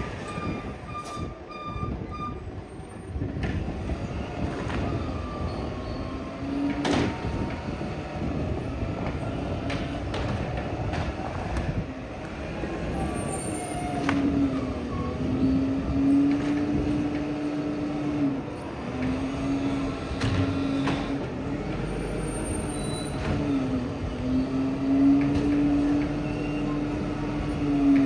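Garbage truck at work: its reversing beeper sounds for about the first two seconds over the running engine. From about halfway, a steady whine joins in and dips and comes back several times.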